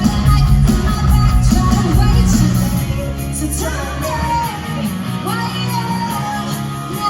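Live amplified rock music with singing. The heavy bass and drums drop out about halfway through, leaving the vocal melody over lighter instruments.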